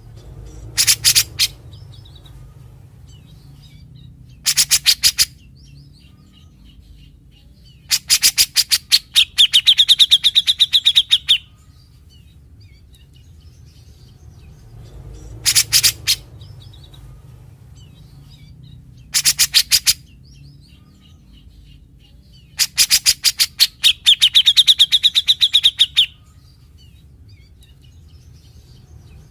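Grey-cheeked bulbul (cucak jenggot) singing in bursts of harsh, rapid rasping notes, the scratchy 'besetan' typical of the species. Six bursts come a few seconds apart, and two of the longer ones run into a quick rattling trill. A low steady hum runs underneath.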